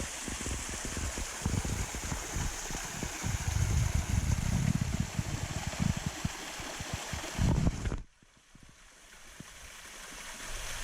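Steady rushing water of a flooded creek waterfall, with low buffeting on the microphone. About eight seconds in it cuts off suddenly to a much quieter water sound that slowly grows louder.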